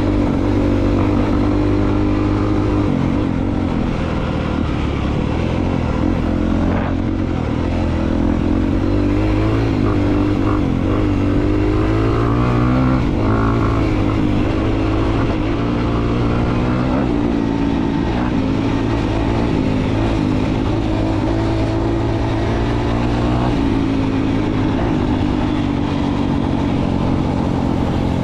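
2022 Honda CRF250R's single-cylinder four-stroke engine running while the bike is ridden, its revs rising and falling again and again with throttle and gear changes.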